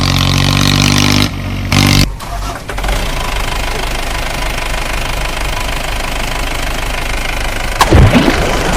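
An engine sound running steadily with an even hum, which breaks off a little over a second in. It goes on as a rougher, knocking steady run, with a sudden loud swooping sound near the end.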